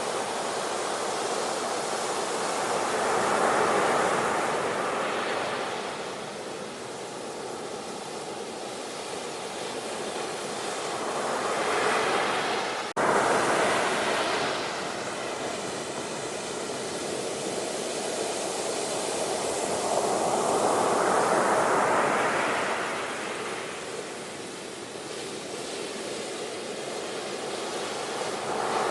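Ocean surf: waves rushing in and washing back, swelling and fading about every eight seconds. About thirteen seconds in the sound drops out for an instant and comes straight back in full.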